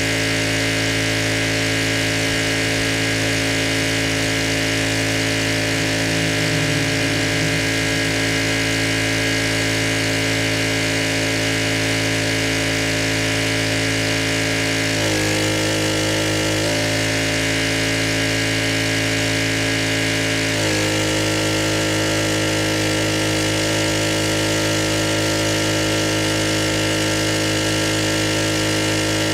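Pressure washer engine running steadily under load, its note stepping to a new pitch about halfway through, back again a moment later, and once more near two-thirds of the way in.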